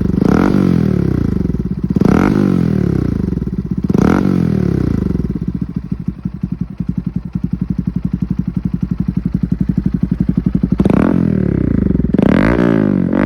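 Bajaj Pulsar NS160's single-cylinder engine through an SC Project aftermarket exhaust with a dB killer, blipped three times about two seconds apart. It settles into a steady idle, then is revved twice more near the end.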